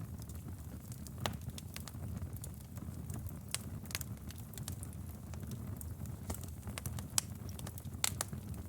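Wood fire burning, with a steady low rumble of flame and irregular sharp crackles and pops, a few of them louder, about 1.3, 4, 7 and 8 seconds in.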